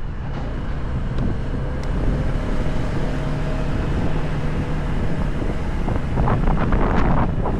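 Motorcycle engine running at a steady pitch while riding, mixed with wind buffeting the microphone, which grows louder and rougher about six seconds in.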